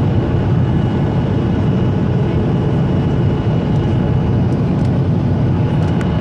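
Steady loud roar inside the cabin of a Ryanair Boeing 737 on its landing approach, engine and airflow noise, with faint steady whining tones above it.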